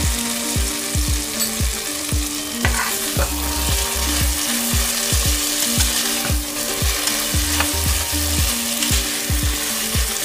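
Fried snails and chili spice paste sizzling in hot oil in a pot while a spatula stirs them.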